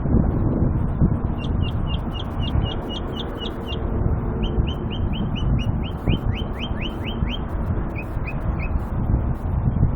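A songbird singing rapid series of short high notes: first a run of quick repeated notes, then a run of downward-sliding notes, then three separate notes near the end. Under the song runs a steady low rumble of wind on the microphone.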